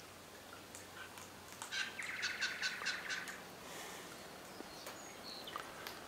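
A bird's harsh, rapid chattering call, about a second and a half long, starting nearly two seconds in, with a few faint ticks and short high notes around it.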